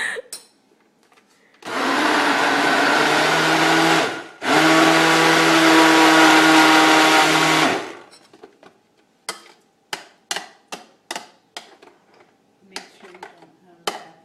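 Countertop blender run in two short bursts of about two and three seconds with a brief stop between, blending avocado, mayonnaise, egg and oil into a conditioner. After it stops, a string of short separate knocks follows.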